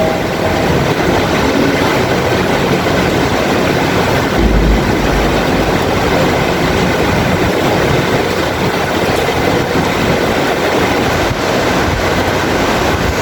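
Heavy rain falling in a steady, dense hiss, with a brief low rumble of thunder about four and a half seconds in.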